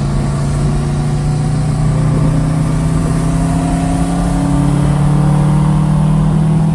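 Car engine and exhaust running under way, loud and steady, its pitch rising slowly over several seconds as the car gains speed, then levelling off.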